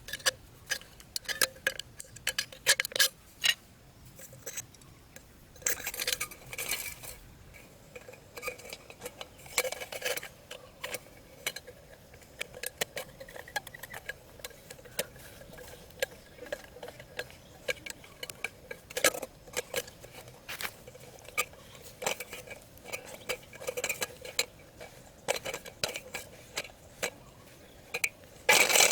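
Irregular clicks, taps and short scrapes of small hard objects being handled, with a louder rustling noise starting near the end.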